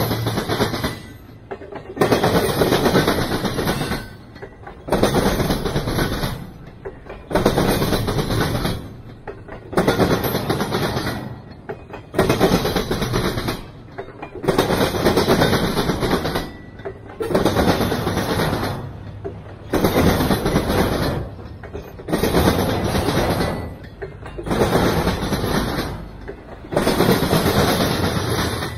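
Intermodal freight train cars rolling past at close range, their wheels clattering on the rails. The noise surges and drops about every two and a half seconds as car after car goes by.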